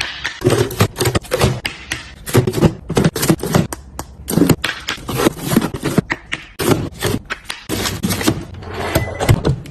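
Close-up handling noises of restocking a fridge: a quick, irregular run of taps, clicks and scrapes as food containers and packaging are picked up and set down, several a second.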